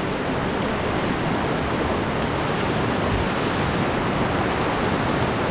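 Whitewater rapids rushing: a steady, unbroken wash of moving water.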